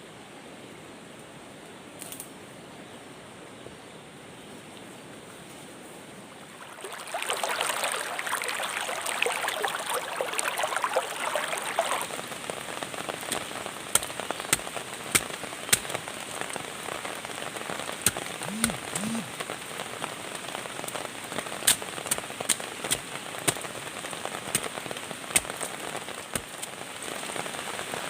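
Rain starting in the forest: a steady hiss, then about seven seconds in a sudden dense patter of rain, settling into steady rain with many loud single drops ticking down.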